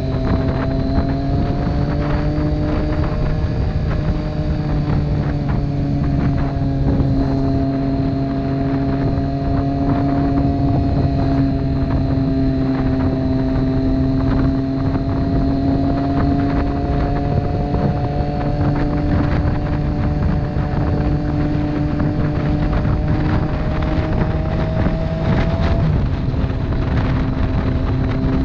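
Motorcycle engine running at a steady cruise, its pitch shifting slightly a few times, with wind rushing over the microphone.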